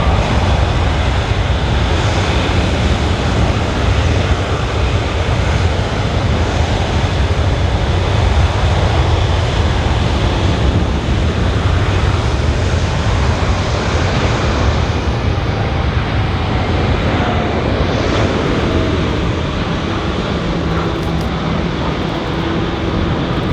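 Boeing C-17 Globemaster III's four turbofan engines running loud and steady at high power as the jet readies for and begins its takeoff roll.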